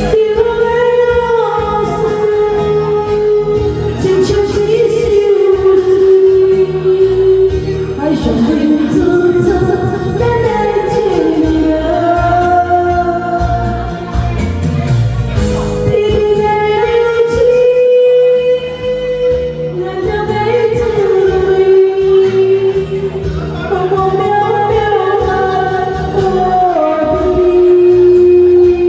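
A solo singer sings a Chinese song, holding long notes, over a karaoke backing track with a steady beat.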